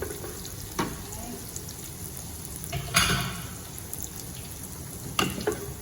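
Dried shrimp sizzling in hot oil in a pan, being stirred, with a few sharp knocks of a utensil against the pan, the loudest about three seconds in.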